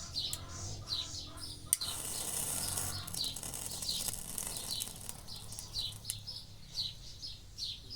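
A bird chirps over and over in short calls, about two a second. A sharp click almost two seconds in is followed by about a second of hiss.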